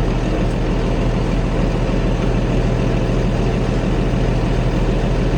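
International 1566 tractor's turbocharged six-cylinder diesel engine running steadily under a light throttle, the low, even engine note not changing.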